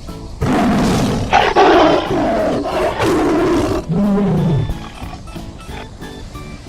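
Tiger roaring: several loud, rough roars in the first four and a half seconds, with background music under them that carries on alone afterwards.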